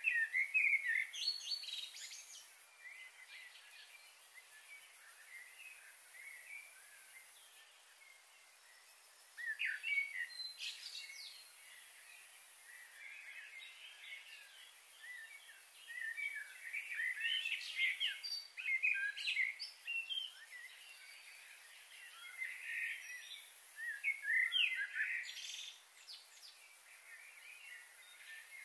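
Birds chirping and calling in four short bouts of quick high chirps, over a steady high hiss.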